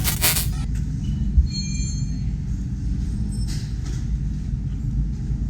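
Low, steady rumble of a race car engine, with a brief high squeal about a second and a half in.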